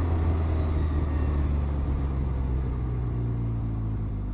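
Can-Am Ryker Rally Edition's three-cylinder engine running with a steady low hum, its level easing off gradually as the trike slows to pull over.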